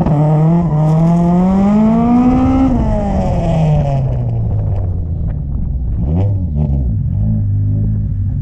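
Drag car's engine heard on board, revving up with its pitch climbing for about two and a half seconds, then easing back to a steady low idle. There is one short throttle blip about six seconds in.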